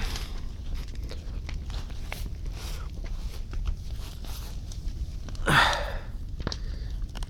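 Large campfire crackling, with scattered sharp pops over a steady low rumble. A short, louder sound falling in pitch comes about five and a half seconds in.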